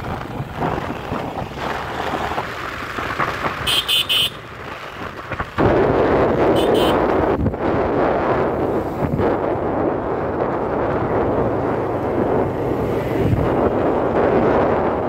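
Wind buffeting the microphone on a moving motorcycle, with the bike's engine and tyre noise underneath; the rush jumps suddenly louder about five and a half seconds in. Two short high-pitched tones sound about four seconds in and again a little over two seconds later.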